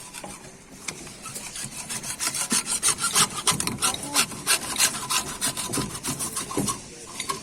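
Rhythmic rasping strokes of a hand tool worked back and forth on a plastic drainage pipe, about two to three strokes a second, starting about a second in.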